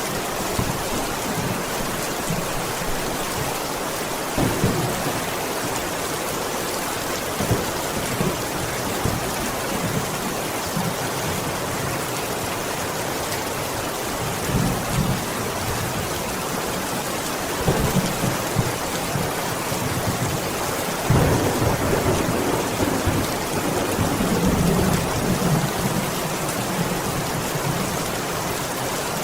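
Steady rain falling: an even hiss throughout, with a few short low rumbles swelling through it, the strongest about two-thirds of the way in.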